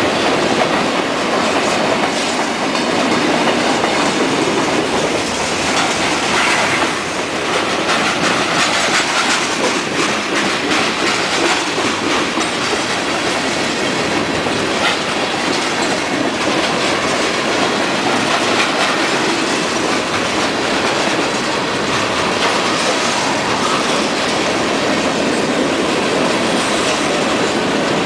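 Freight train cars rolling past at close range: a steady rumble and rattle of steel wheels on the rails, with clickety-clack over the rail joints.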